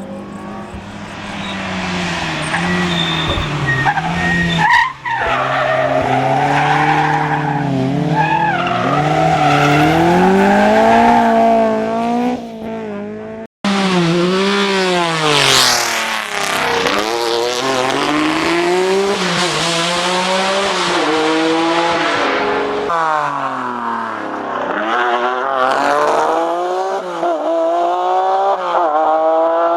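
Historic rally cars at full effort on a stage, engines revving hard and dropping back through quick gear changes as they accelerate and brake. Three clips are cut together, with breaks at about 13 and 23 seconds in.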